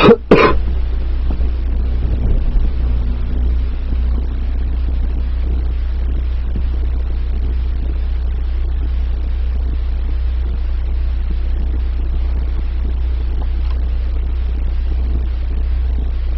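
Steady low rumble of a car on the move, heard from inside, with two sharp knocks right at the start.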